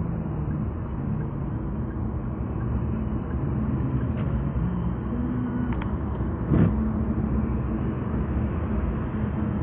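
Car driving on an expressway, heard from inside the cabin: steady road and engine rumble, with one short thump about two-thirds of the way through.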